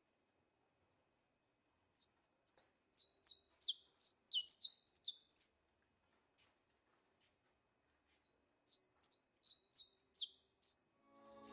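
A bird chirping in two runs of short, high, falling notes, about three a second, with a pause of a few seconds between the runs.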